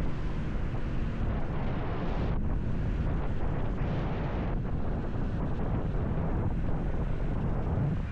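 Wind buffeting the microphone of a camera on a moving motorcycle: a steady low rumble and rush of air, with the engine and tyre noise blended into it.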